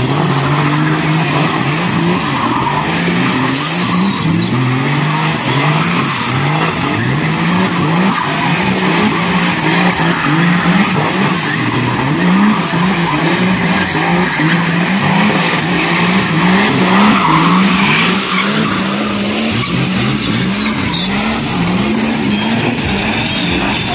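A Chevrolet Omega drift car's engine revved hard over and over, its pitch climbing and dropping many times in a row, with tyres skidding on wet asphalt as the car spins in circles.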